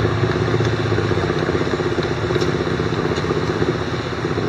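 A boat motor running steadily with an even, fast-pulsing rumble.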